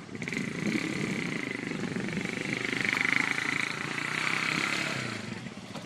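A motor engine running steadily. It grows louder to a peak about halfway through, then fades away.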